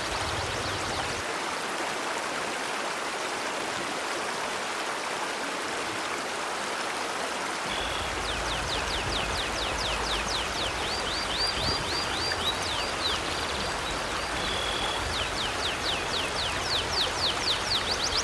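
Steady rush of a flowing river. Over it, from about eight seconds in, a bird calls in quick runs of short, falling chirps.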